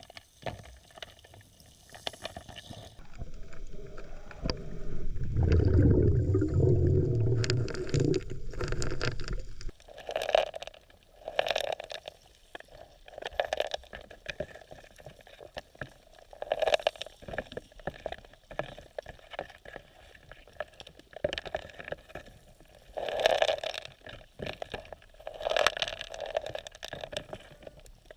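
Underwater gurgling and bubbling: a few seconds of loud, low bubbling, followed by a string of short, irregular gurgling and scraping sounds every second or two.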